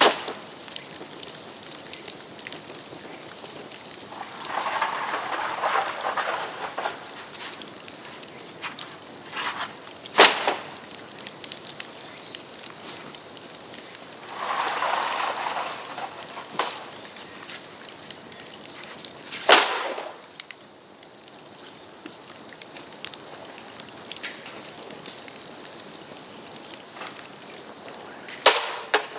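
Bamboo burning in an open fire, crackling and hissing, with three sharp loud bangs about nine seconds apart as sealed bamboo sections burst from the heat. A thin high whistle comes and goes.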